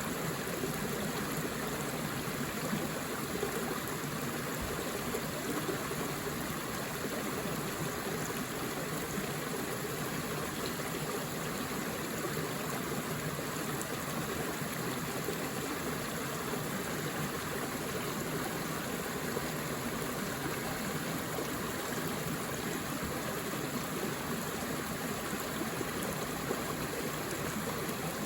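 Forest river or stream flowing over rocks, a steady rush of running water.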